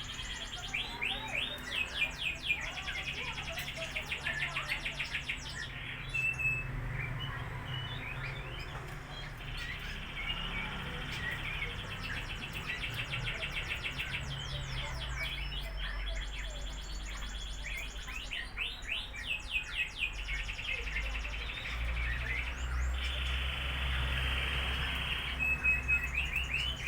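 Lovebirds chirping in repeated runs of rapid, sharp high chirps and trills, over a steady low hum.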